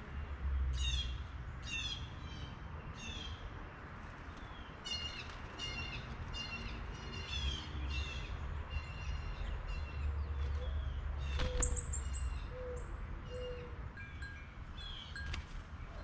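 Small birds chirping: short, high, down-slurred calls repeated about once or twice a second, with a sharp click near the middle, over a steady low rumble.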